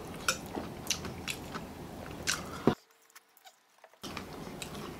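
Close-miked eating sounds: chewing and biting with irregular sharp wet clicks and crunches. The sound cuts out completely for about a second past the middle, then resumes.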